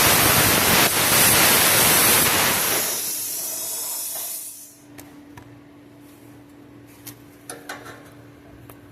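Bestarc plasma cutter hissing as it cuts through exhaust pipe; the hiss eases off about three seconds in and stops about halfway through. A steady low hum remains, with a few short clicks near the end.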